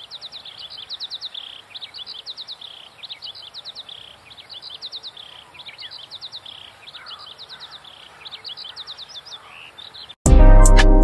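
Small birds chirping: groups of quick high notes repeated about once a second. About ten seconds in, loud music starts abruptly.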